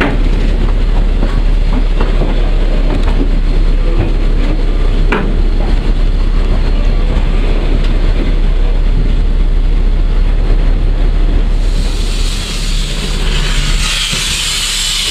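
PKP Ol49 steam locomotive on the move, heard from the footplate: a steady heavy rumble with wheels knocking over rail joints. About twelve seconds in a loud hiss joins it.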